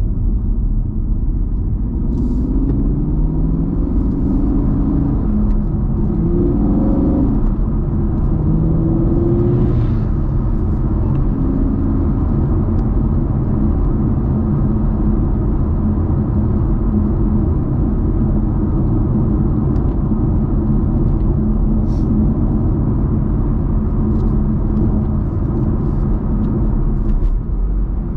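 Muscle car engine running under way, with its pitch rising several times between about two and ten seconds in as it accelerates, then holding a steady low drone while cruising.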